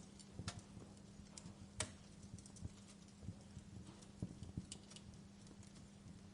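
Wood fire crackling, with irregular small pops and snaps and one sharper pop about two seconds in, over a faint steady hum.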